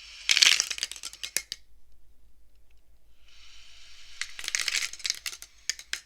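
Beads of a wooden bead abacus slid along their rods and clacking against each other, twice: each time a brief sliding rush and then a quick run of sharp clicks, about half a second in and again from about four seconds in.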